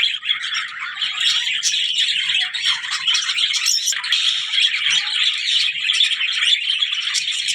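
A flock of budgerigars and zebra finches chattering and chirping together in a dense, continuous chorus of overlapping calls.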